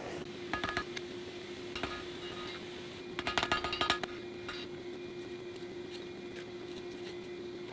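Light metal-on-metal clinks and rattles of steel being handled, a few single clinks and a quick rattling cluster about three seconds in, over a steady hum.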